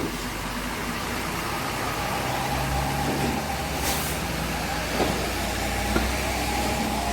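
Bus engine running steadily and getting a little stronger partway through, with a short hiss of air about four seconds in.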